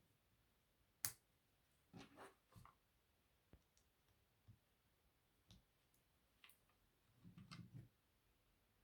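Faint clicks of plastic LEGO bricks being handled and pressed onto the build, one sharper snap about a second in, then roughly one click a second, with a brief rustle of pieces near the end.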